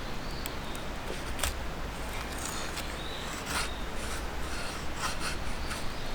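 Irregular small clicks, taps and rubbing of gear being handled, with a few faint high bird chirps in the woods.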